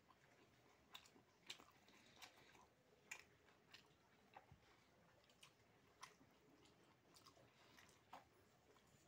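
Faint chewing and wet mouth clicks of a person eating fried fish and soaked rice by hand, with irregular soft smacks and ticks.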